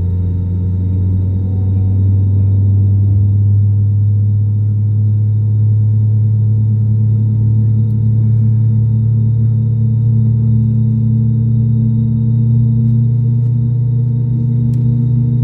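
Airbus A320 jet engines heard from inside the cabin: a loud, steady drone of low humming tones with a faint high whine, one tone edging slowly upward in pitch.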